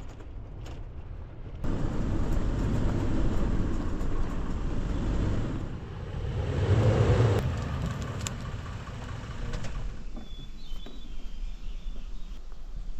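Vehicle driving, a steady road and engine rumble that swells about six seconds in and fades around ten seconds. Faint bird chirps follow near the end.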